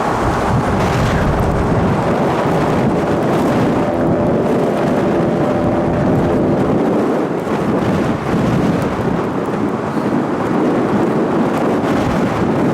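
Severe storm with hail up to softball size falling and striking hard in strong wind: a loud, steady, dense clatter of impacts over a rushing roar.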